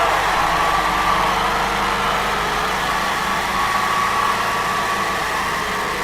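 2008 Triumph Scrambler's 865 cc air-cooled parallel-twin engine running steadily.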